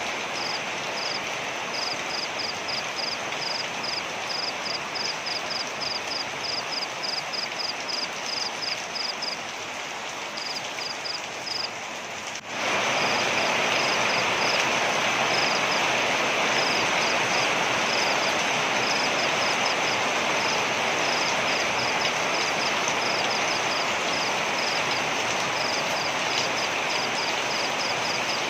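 Waterfall rushing steadily, with a high-pitched animal chirping about three times a second over it. About twelve seconds in, the water sound abruptly jumps louder and brighter.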